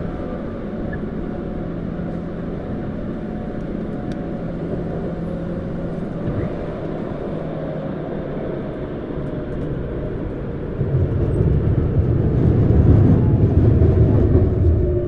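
Tokyu Series 9000 electric train with Hitachi GTO-VVVF traction, heard from inside a motor car: steady rolling noise of wheels on rail with a faint steady tone. The rumble grows louder and deeper about eleven seconds in.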